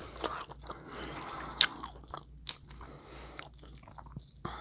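Close-up eating sounds: hard crab shells being cracked and pried apart by hand, with crunching and chewing. One sharp crack stands out about a second and a half in, among smaller crackles.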